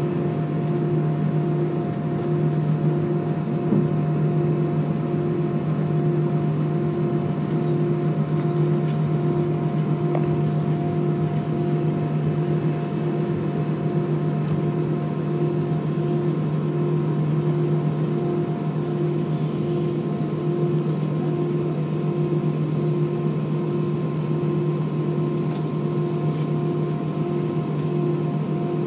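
Airbus A320 jet engines heard from inside the passenger cabin, a steady drone while climbing out after takeoff, with a low hum and a faint evenly pulsing tone above it.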